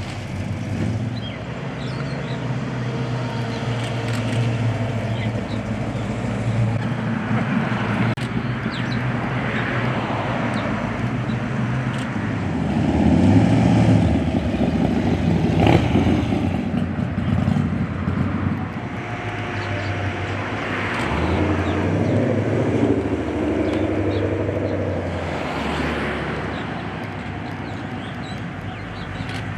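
Car engines running, with several vehicles passing in turn; the engine sound swells and fades, loudest a little before the middle and again past two-thirds.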